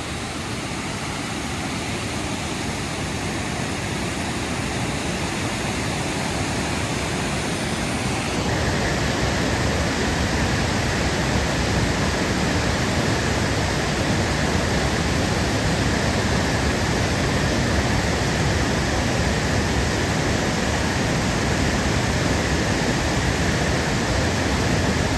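Alsea Falls running high with December rain: a steady, loud rush of falling water. It grows louder over the first several seconds, and its tone changes abruptly about eight seconds in.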